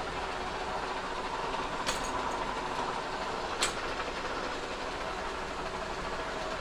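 Kearney & Trecker 2HL horizontal mill running steadily while taking a 0.025-inch milling pass across a cast iron straight edge. Two sharp ticks come through, about two seconds in and again near four seconds.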